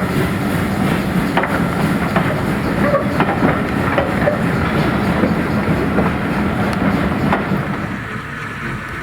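Train rolling along the track, its wheels clicking over rail joints amid a steady rumble, easing off near the end.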